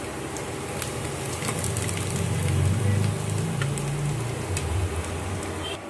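Sliced onions sizzling in oil in a kadai on an induction cooker, with a few light clicks of a wooden spatula against the pan and a low rumble that is loudest in the middle.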